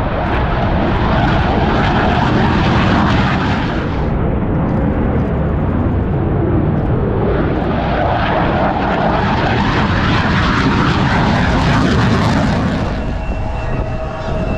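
Military aircraft flying past together: C-2 transport, F-15 fighter and E-2C Hawkeye. Their loud engine roar swells twice and eases off near the end.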